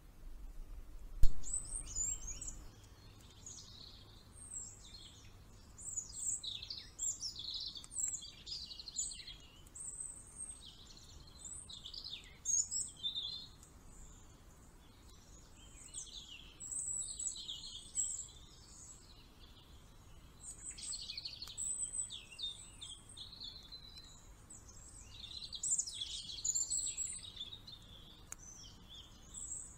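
Small birds chirping and twittering in repeated bouts of quick, high notes, with a single sharp click about a second in.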